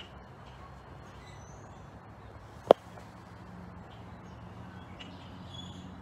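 Scattered faint chirps from birds in the treetops over a low steady background rumble, with one sharp knock about two and a half seconds in.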